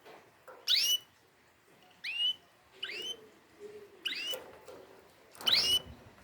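Canary giving five short, bright chirps, roughly a second apart.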